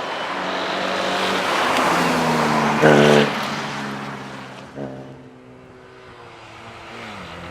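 Alfa Romeo 147 rally car's engine running hard. Its note builds to a loud peak about three seconds in, drops away, gives a short blip near five seconds and then settles lower.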